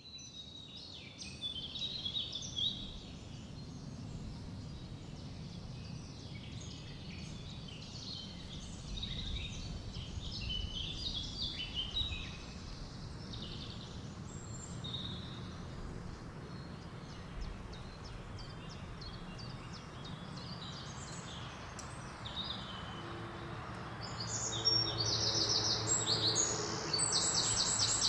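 Forest birds chirping and singing in many short overlapping calls over a steady low rumble of wind. The birdsong grows louder near the end, with quick repeated trills.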